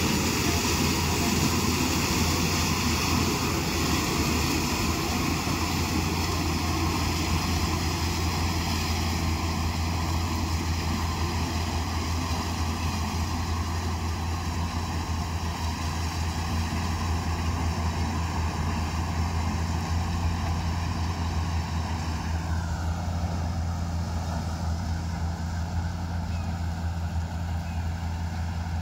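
Harvester running steadily with a deep hum and a high whine; about three-quarters of the way through, the whine drops lower in pitch and settles.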